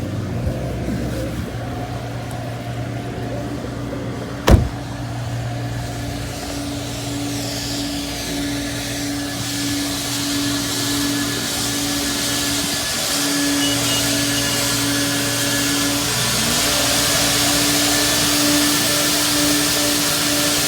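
A car idling with a steady hum. A single sharp knock comes about four and a half seconds in, and from about eight seconds a hissing rush builds up and grows louder toward the end.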